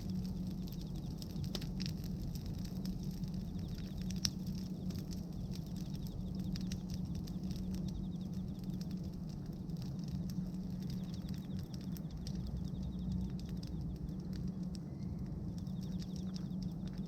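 Bonfire of pruned tree branches crackling, with scattered small pops and one sharper pop about four seconds in, over a steady low rumble.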